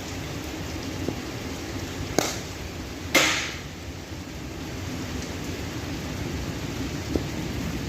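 Steady heavy rain with two sharp cracks of a cricket bat striking the ball about a second apart, the second louder with a brief ringing tail, and a faint tap near the end.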